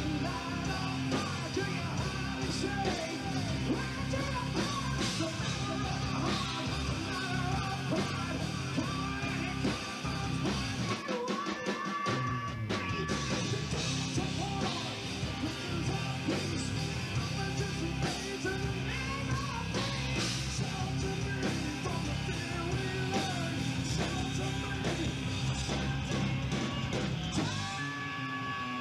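Rock band playing, with electric guitar and loud, shouted singing.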